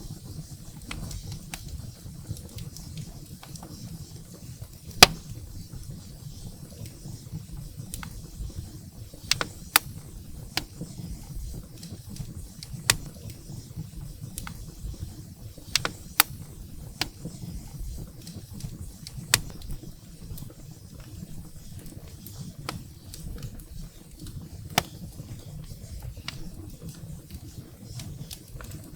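Wood fire burning in a fireplace: a steady low rumble of flames with irregular sharp crackles and pops from the burning firewood, the loudest pop about five seconds in.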